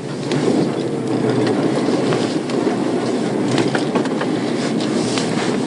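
Police patrol car driving at speed during the pursuit: steady engine and tyre noise, with scattered light ticks over it.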